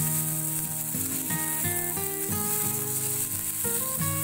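Cauliflower batter pancake sizzling in a hot pan, a steady frying hiss, with background music of sustained melodic notes playing over it.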